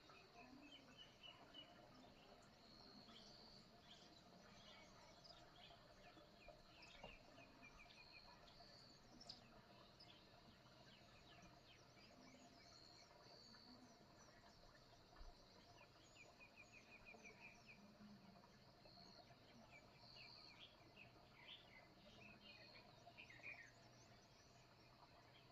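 Faint morning birdsong: several small birds chirping and calling, with short quick trills and repeated high notes scattered throughout, over a low steady background hum.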